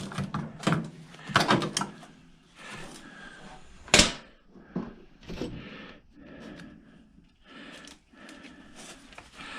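Scattered clicks and knocks of tools and metal parts being handled while a microwave oven is taken apart, with one sharp knock about four seconds in.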